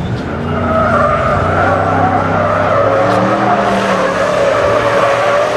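A car drifting: its tyres squeal steadily over the engine's note.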